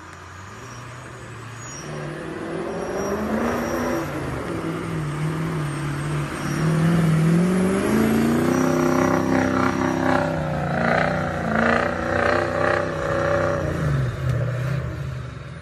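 A truck engine revving. Its pitch climbs over the first few seconds, stays high and wavering through the loudest stretch, then drops away near the end.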